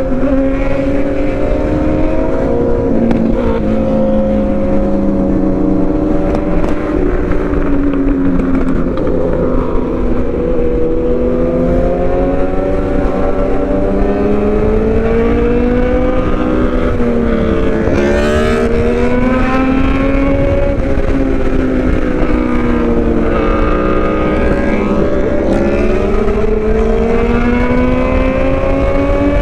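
Suzuki GSX-R750 inline-four running through an aftermarket exhaust (MJS headers and midpipe, M4 slip-on) while being ridden, its pitch slowly rising and falling with the throttle and climbing steadily near the end as the bike speeds up. A low steady rumble of wind on the microphone lies underneath.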